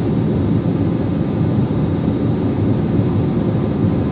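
Steady engine and air noise inside a passenger airplane's cabin, an even low rumble with a faint steady hum above it.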